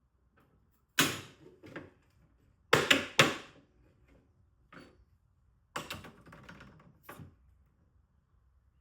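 A series of about eight irregular sharp knocks and clacks, each dying away quickly. The loudest come about a second in and as a quick cluster of three around three seconds in.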